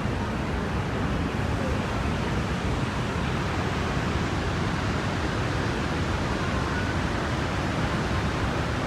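Dhuandhar Falls on the Narmada River: falling water rushing in a steady, unbroken noise.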